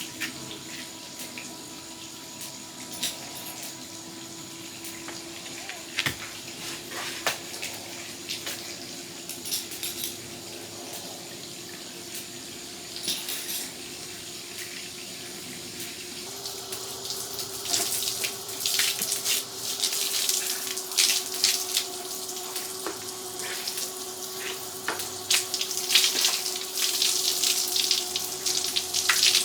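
Water running from a hose with a faint steady hum. About halfway through, the flow becomes a louder, spattering spray with splashing.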